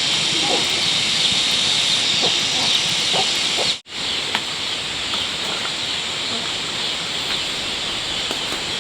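A steady high-pitched hiss that drops out for a moment about four seconds in, with a few faint short sounds underneath.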